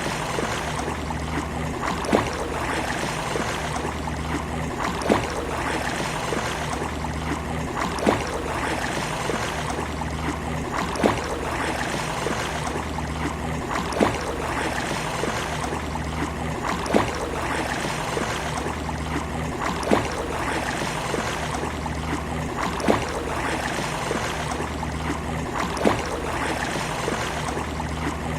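Sea waves washing steadily on a beach, an even rushing wash with no single breaking wave standing out. A sharp tick cuts through at a regular pace about every three seconds.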